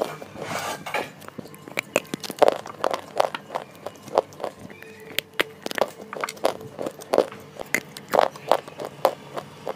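Close-up crunching and chewing of dry, chalky white slatebar pieces, heard through a clip-on microphone: a string of sharp, crisp cracks, about two a second, with softer chewing between.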